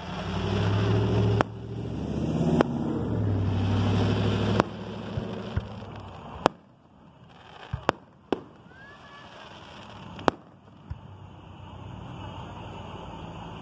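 Aerial firework shells bursting overhead: about ten sharp bangs at irregular intervals, a few close together near the middle. A low steady hum runs under the first third and stops suddenly.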